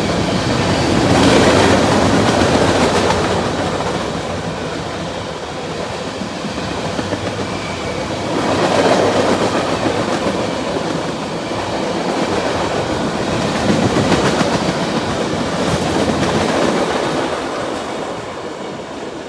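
Freight train rolling past close by, its wheels rumbling and clacking over the rail joints. The noise swells and eases several times as cars go by.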